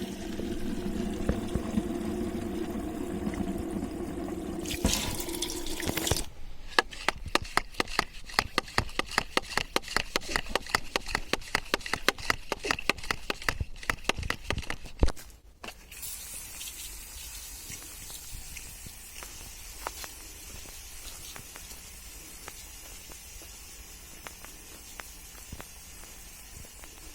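Water pouring into a hand-pump garden sprayer's bottle, with a steady hollow ringing tone. About six seconds in, this gives way to around nine seconds of quick, regular clicking strokes as the sprayer is worked. After that comes a quieter steady hiss with a few faint ticks.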